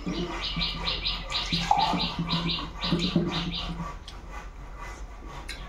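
Wet chewing and lip-smacking on a mouthful of rice and fish, about three to four smacks a second, dying away after about four seconds.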